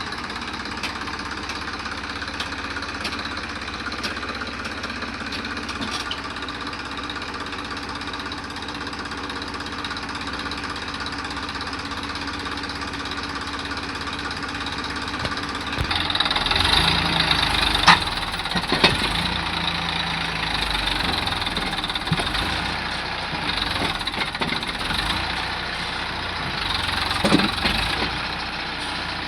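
Tractor engine running steadily, growing louder and harsher about halfway through, with a couple of sharp clacks soon after.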